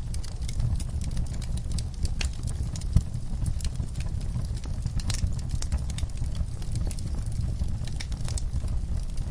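Wood fire burning in a fireplace: irregular crackles and pops over a steady low rumble of the flames, with one sharper pop about three seconds in.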